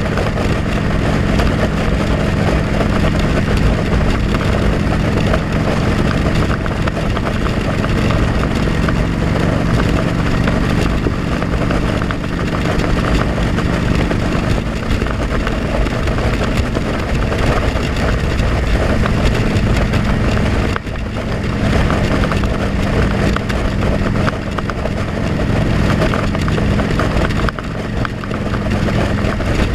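Motorcycle engine running steadily, heard from a helmet-mounted camera while riding, with wind noise rushing over the microphone. The level dips briefly twice in the latter part.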